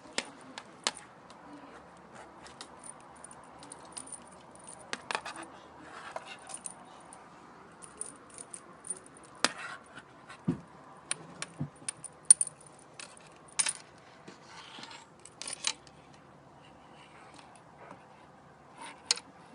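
Light metallic jingling and clicking in irregular short bursts, some louder than others.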